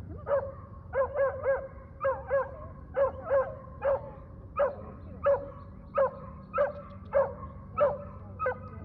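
A dog barking over and over, about two short barks a second, each bark dropping a little in pitch: reactive barking at approaching dogs.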